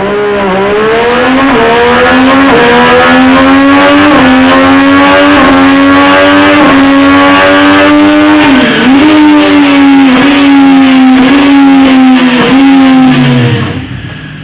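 Triumph 765cc three-cylinder Moto2 racing engine run hard at high revs. Its pitch climbs in short pulls broken by brief dips about once a second, like quick gearshifts, with a deeper dip about two-thirds through; the engine note falls away and fades near the end.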